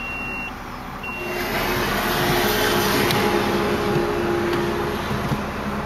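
Motorized automatic shoulder seat belt of a 1990 Hyundai Sonata running along its door-frame track with a steady electric whir for about four seconds, after two short warning beeps at the start. The engine idles underneath.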